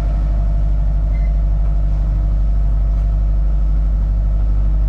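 Sailboat's inboard engine running steadily under way, a loud, even low drone with a fast regular beat.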